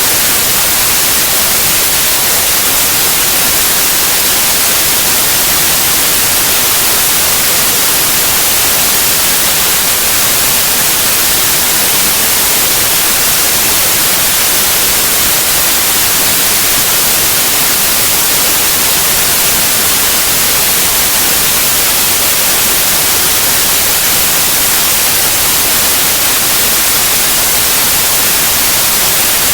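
Steady, loud white noise, an even hiss that does not change.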